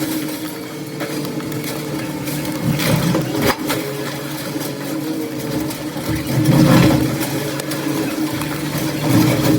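Demolition machine's engine running steadily, swelling louder a few times, with occasional sharp knocks of debris.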